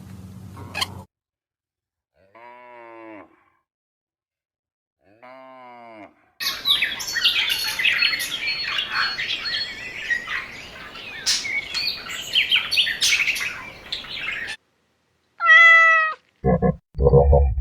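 A string of separate animal sounds with dead silence between them. First come two short pitched calls, then about eight seconds of many birds chirping together, then another short pitched call near the end.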